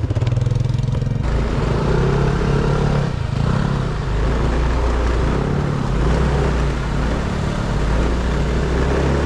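Moped engine running while riding, with wind rushing on the microphone. The engine note shifts to a new pitch a few times.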